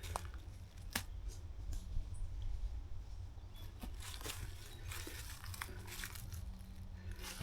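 Irregular crunching and crackling of dry vegetation and ground underfoot while walking, over a low rumble on the microphone.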